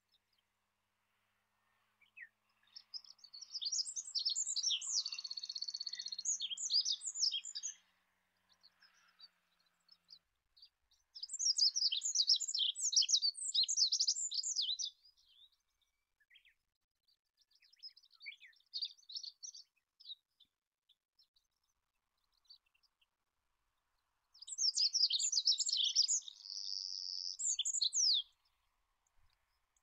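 Olive-backed pipit singing: four bursts of rapid, high-pitched, jumbled notes, each lasting a few seconds with short pauses between, the third burst fainter than the others.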